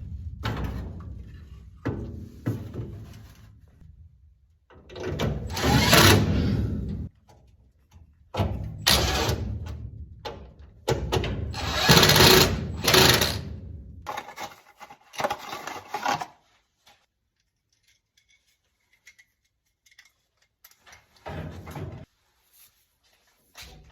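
Work noises from installing a new furnace inducer motor: several loud bursts of a second or more each, in the manner of a power tool or metal parts being handled. Then mostly quiet, with a couple of short knocks near the end.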